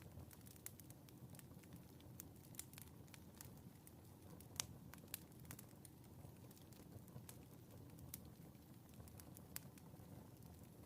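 Faint crackling of a wood fire in a fireplace: scattered sharp pops over a low steady rumble, the loudest pop about halfway through.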